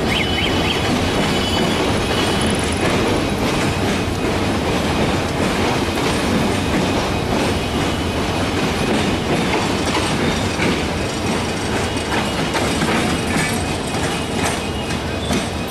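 Passenger coaches of an express train rolling over yard points and rail joints, the wheels clattering and clanking in a steady stream of clicks.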